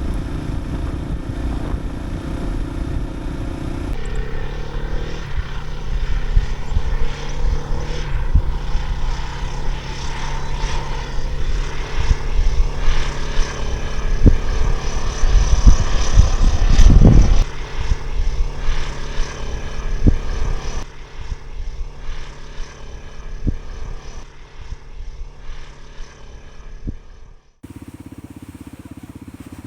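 Single-cylinder dual-sport motorcycle engine running steadily on a dirt road, with occasional knocks from the rough surface. The sound changes suddenly twice, about four seconds in and near the end.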